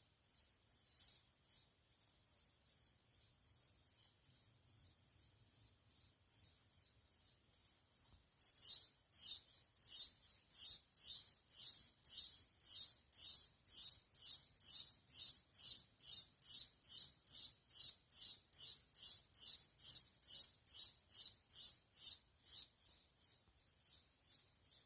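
An insect chirping in an even rhythm of about two high-pitched pulses a second, faint at first and clearly louder from about eight seconds in.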